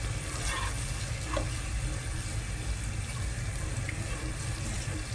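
Blended chili paste bubbling and sizzling in oil in a pot, stirred with a spatula, a steady wet frying hiss. It is being sautéed until the oil separates from the paste.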